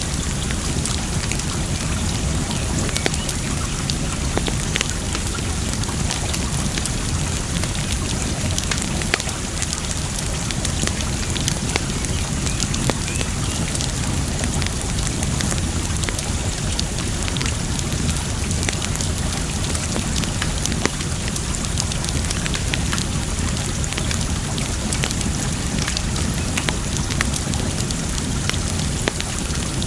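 Campfire wood crackling and popping in scattered sharp snaps over a steady wash of water noise.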